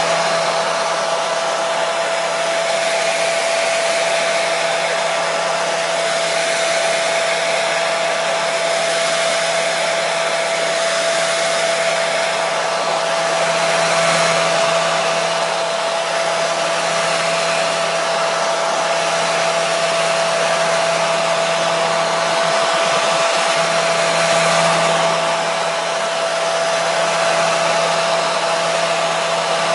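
Electric hair dryer running steadily: an even rush of blown air with a constant motor hum and whine.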